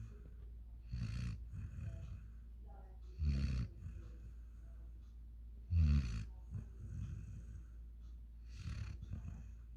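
A five-month-old German Shepherd–Boerboel cross puppy snoring in its sleep, one snore about every two and a half seconds, the two in the middle the loudest.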